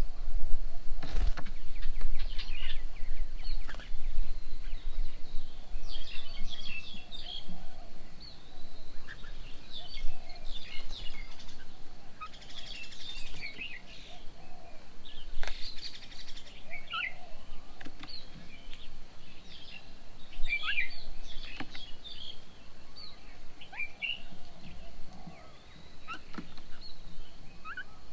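Several birds chirping and calling with short, high notes scattered throughout, over a steady low rumble. A sharp click comes about a second in.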